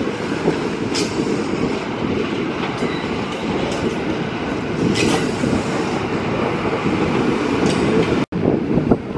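Train running on the tracks: a steady rumble with a few short clanks from the wheels on the rails. The sound cuts out for an instant about eight seconds in.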